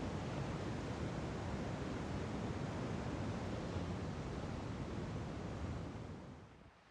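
Steady rushing outdoor noise of coastal wind and ocean surf, fading out near the end.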